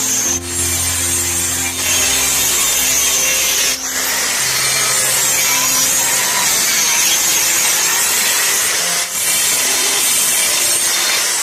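Saw cutting through wood in a steady, continuous run, with a few brief breaks in the cut.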